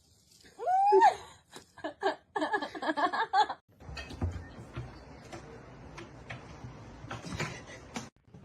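A voice: a short gliding call about a second in, then a quick pulsed run of laughter. After that comes a steadier rustling background with scattered knocks.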